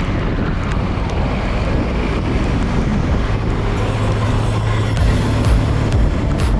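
Wind and road noise rushing over a bicycle rider's camera microphone on a road, with a motor vehicle's engine droning steadily past from about three to five seconds in and a few sharp knocks near the end.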